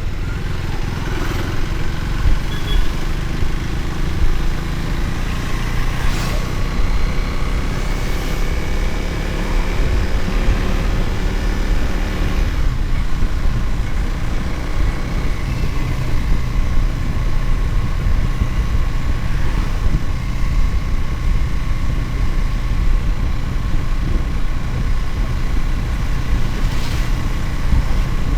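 Motorcycle engine running under way over a heavy low rumble. The engine pitch climbs for several seconds in the first half, then changes abruptly about halfway through and settles to a steadier note.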